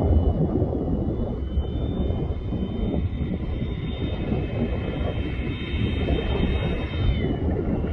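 Whine of a Freewing Avanti S RC jet's 80 mm electric ducted fan in flight, several high steady tones, one of them dipping in pitch near the end. Heavy wind rumble on the microphone runs underneath.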